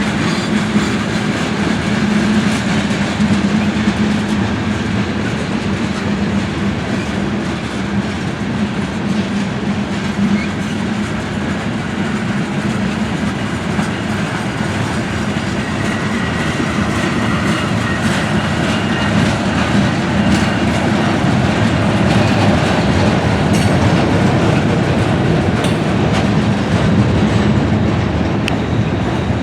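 Freight train cars rolling steadily past, wheels clicking over the rail joints, with a faint wheel squeal in the middle.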